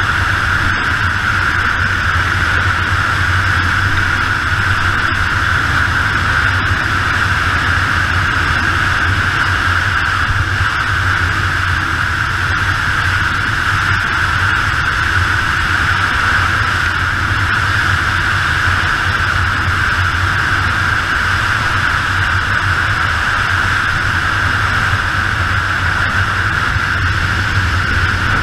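Yamaha XT 600 single-cylinder motorcycle ridden at a steady pace: a loud, even rush of wind noise over the camera with the engine's low drone underneath, holding steady with no revving or gear changes.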